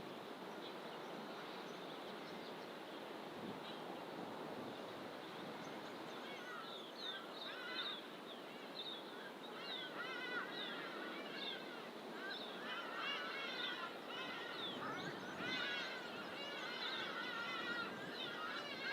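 Wild birds in fynbos bush calling with quick, repeated high chirps. The calls start about a third of the way in and grow busier toward the end, over a steady rushing background noise.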